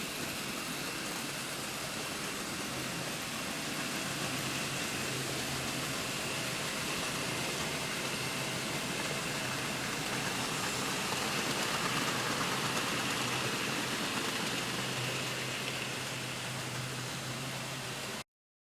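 00 gauge model train running on the layout track: a steady rolling hiss with a low motor hum and a faint high whine, cutting off suddenly near the end.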